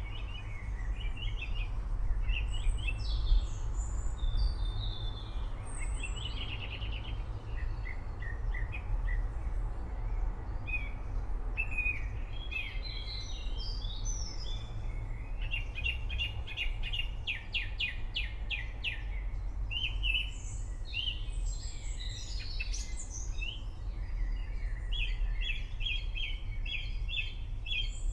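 Several songbirds singing and chirping, with a fast trill about halfway through, over a steady low rumble.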